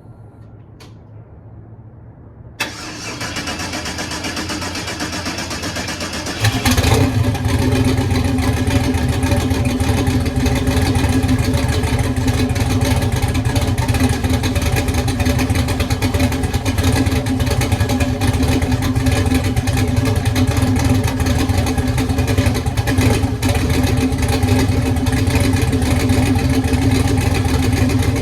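Twin-turbo LS V8 in a Chevy S10 cranking for about four seconds, then catching and settling into a steady idle: a cold start.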